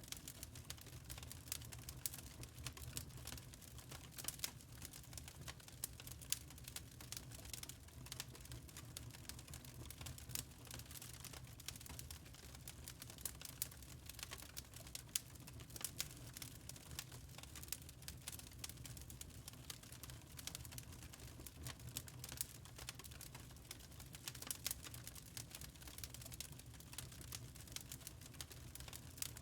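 Wood fire burning in a fireplace, with irregular sharp crackles and pops over a low steady rumble of the flames.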